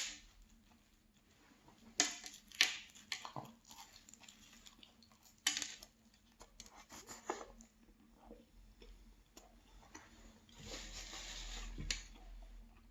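Someone biting into and chewing a flaky pastry: sharp crisp crackles at each bite, softer chewing between, and a longer crunchy stretch near the end.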